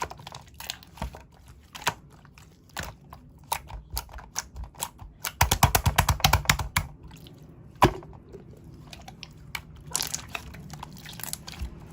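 Slime being squeezed and pressed by hand, making scattered wet clicks and pops, with a fast run of loud clicks about halfway through and one sharp pop shortly after.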